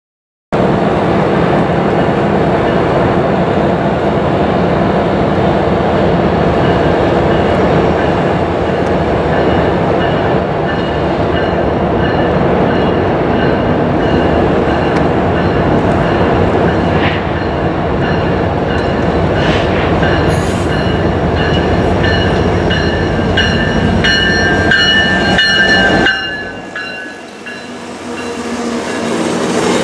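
Union Pacific garbage train running past: a steady loud rumble of locomotive and wheels, with high-pitched wheel squeal in the seconds before the locomotive passes. The sound dips briefly after that and swells again near the end.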